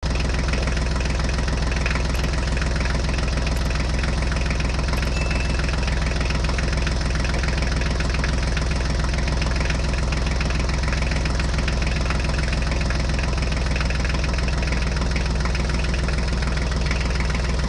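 An engine idling with a steady, unchanging, even beat.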